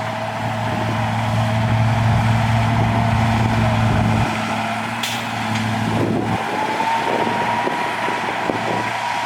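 Diesel engine of heavy earthmoving machinery running with a steady low hum. About six seconds in the hum drops away and a whine rises in pitch and holds, with a run of rattling clanks.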